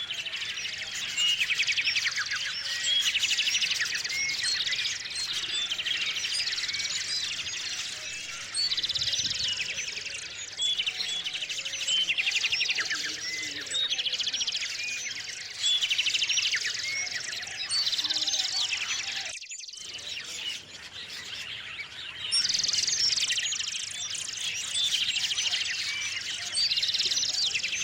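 A chorus of small songbirds chirping and trilling, many calls overlapping, with rapid repeated trills every second or two. The sound cuts out for a moment about two-thirds of the way through.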